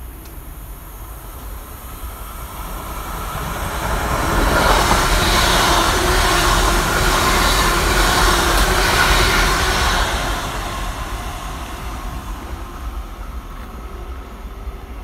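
A fast train passing through the station at speed without stopping. It builds over a couple of seconds, stays loud for about five seconds as it goes by, then fades away.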